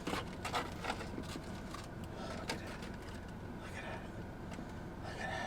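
Short clicks and rustling of takeout food packaging being handled, several in quick succession in the first half, then quieter handling.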